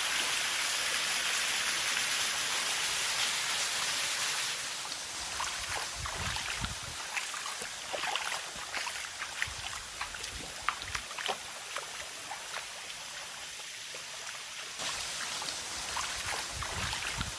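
Rushing water of a stream, a steady hiss that is loudest for the first four seconds or so and then fades lower, with scattered light clicks and a few low thumps.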